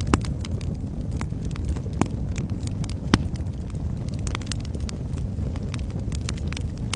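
Wood fire crackling in a fireplace: a steady low rumble of flames under frequent sharp crackles and snaps, with three louder pops near the start and about two and three seconds in.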